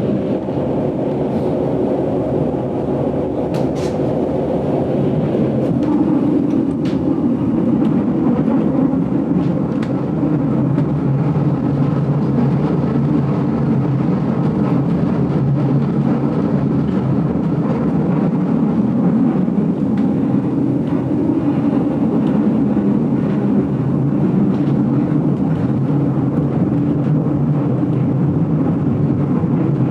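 GoldenPass Belle Époque train running steadily on the rails, an even rumble heard from inside the carriage, with a few faint clicks in the first ten seconds.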